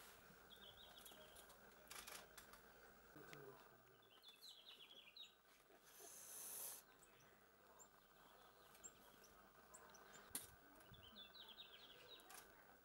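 Faint coal tit calls: three short runs of quick, high, thin notes. A brief hiss of noise about six seconds in.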